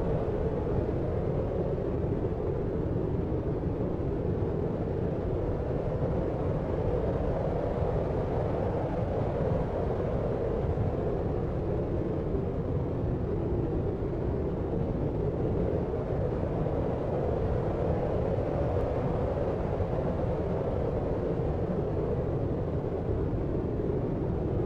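Deep sleep noise: a steady, even hiss weighted toward the low end, darker than plain white noise, with no separate events.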